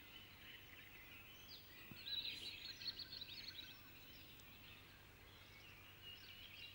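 Faint birdsong: quick twittering chirps, busiest about two seconds in and again near the end, over a quiet outdoor background.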